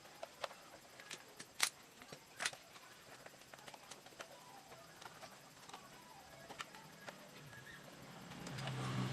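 Scattered light clicks and metallic clinks of tools and scooter parts being handled during repair work. A low hum swells in near the end.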